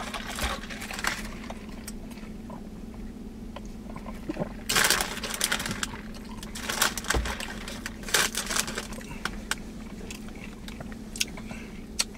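Close-up eating sounds: a man chewing a Philly cheesesteak sub with wet mouth clicks and lip-smacking, broken by a few short, louder noisy bursts.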